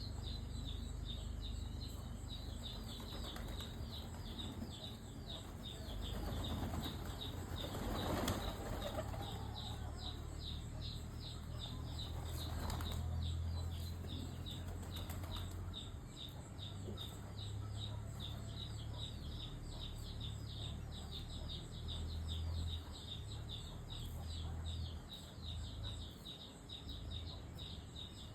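Bird wings flapping, in louder bouts about three, seven to nine, and twelve seconds in, over a fast, steady high-pitched chirring.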